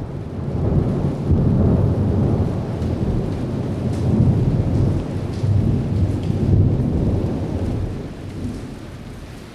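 Thunderstorm sound effect on a record intro: rolling thunder over steady rain, swelling several times and dying down near the end.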